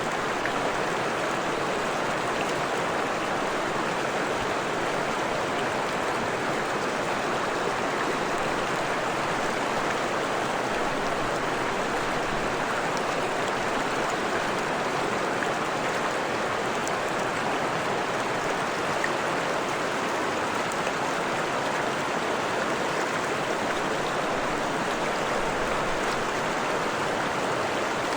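Freshwater stream running over rocks, a steady rush and babble of flowing water.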